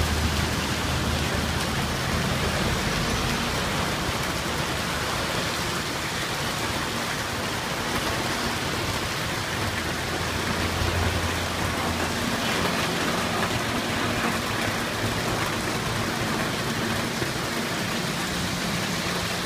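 Heavy rain pouring steadily onto a wet street. Low engine hum from vehicles driving through the water rises near the start and again about halfway through.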